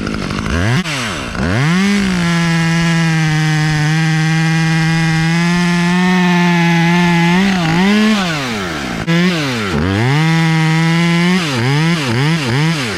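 Chainsaw revving up and cutting into the wood at full throttle, held steady for about five seconds, then easing off and revving again for another cut. Near the end the throttle is blipped several times in quick succession.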